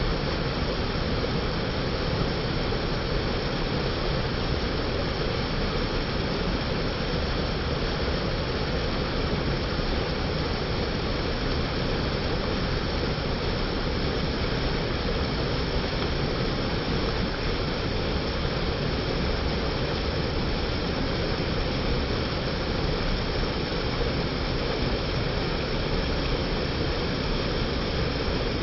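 Mountain creek rushing: a steady, unbroken noise of flowing water with no changes.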